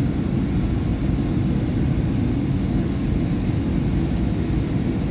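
SEPTA Market-Frankford Line rapid-transit train running at speed between stations, a steady low rumble of wheels on rail and traction motors.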